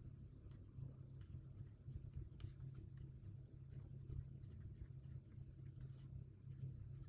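Faint scattered taps and short scratches of desk work, such as pen writing on paper, over a low steady room hum.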